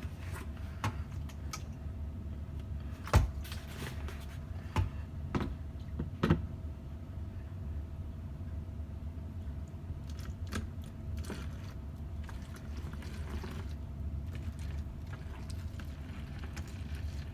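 Scattered knocks and clatter from household items being handled, loudest about three seconds in and fainter and sparser after about six seconds, over a steady low hum.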